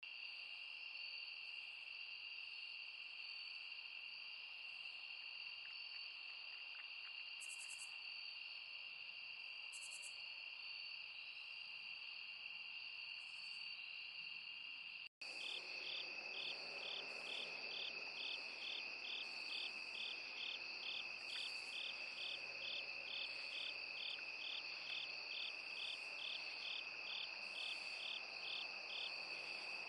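Chorus of crickets or katydids: a steady, continuous high-pitched trill. After a brief cut about halfway through, another insect adds an even, pulsed chirp about twice a second.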